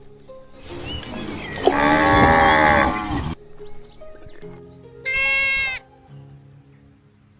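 Two bleats over background music: a long, wavering bleat starting just under a second in, then a short, higher-pitched bleat about five seconds in.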